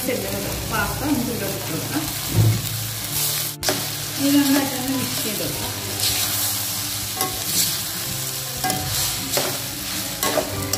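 Vermicelli, chicken and vegetables sizzling in a hot steel wok while being stirred and tossed with a steel spoon, the spoon scraping and knocking against the pan now and then. The sizzle cuts out for an instant about a third of the way in.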